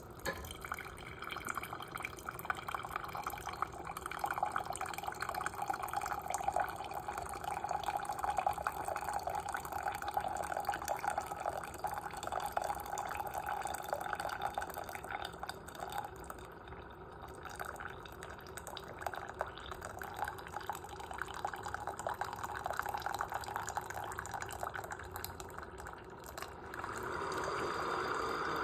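Hot coffee streaming and dripping from a Mainstays single-serve coffee maker into a cup as it brews a cup of ground coffee. It runs steadily and grows louder near the end.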